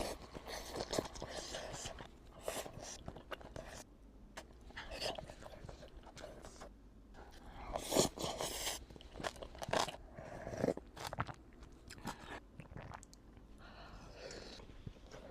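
A person biting and chewing crunchy food close to the microphone, in irregular crunches with short pauses between them; the loudest bite comes about eight seconds in.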